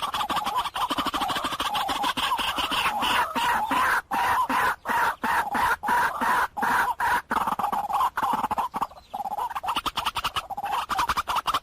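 White-breasted waterhen calling: a fast run of harsh, croaking notes that breaks about four seconds in into separate notes, two or three a second. After a short pause the fast run starts again near the end.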